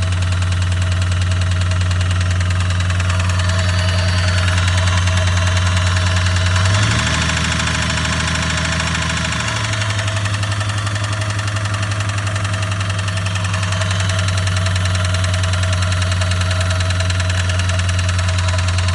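Chevrolet Impala engine idling with a knock. The engine note changes briefly about seven seconds in, then settles back to a steady idle. The owner suspects the knock comes from the top end, though he could be wrong.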